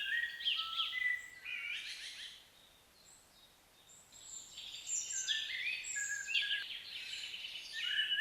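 Small birds chirping and calling in short, high notes, busy at first. After a quiet stretch of about a second and a half, the calls come thicker again in the second half.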